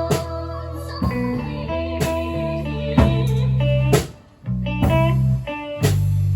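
Live indie rock band playing an instrumental passage: electric guitar and bass notes over drum hits about once a second, with a brief near-stop a little after four seconds in.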